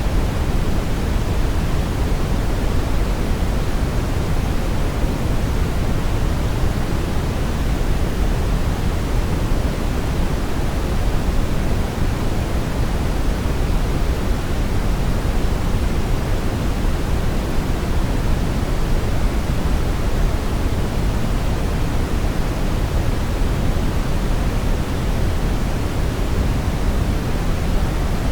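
Steady synthetic brown noise: an even, unbroken rumbling hiss, strongest in the low end and rolling off toward the highs.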